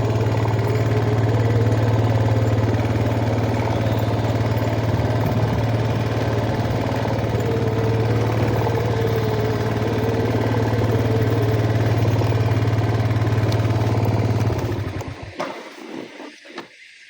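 Yamaha Jupiter MX motorcycle engine idling steadily, then cutting out about fifteen seconds in.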